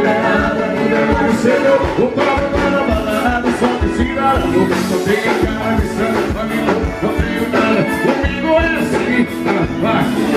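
A forró band playing live with a singer, over a steady, quick drum beat.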